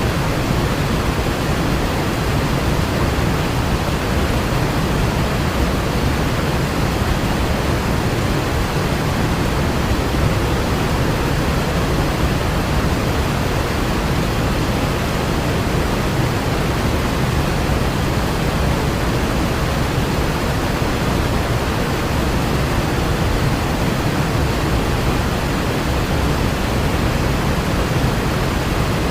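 Mountain stream in flash flood, a powerful torrent of water rushing past: a loud, steady roar with a heavy low rumble.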